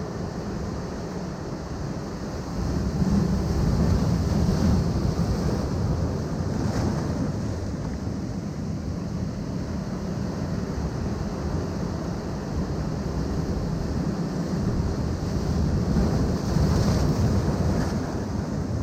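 Ocean surf washing against a rocky shore in a steady rush, swelling louder about three seconds in and again near the end, with wind rumbling on the microphone.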